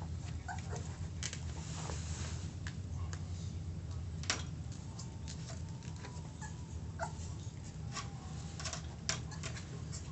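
A Kishu puppy moving about on a veranda floor: scattered small taps and clicks of paws and claws over a steady low hum, with a couple of faint thin whines in the second half.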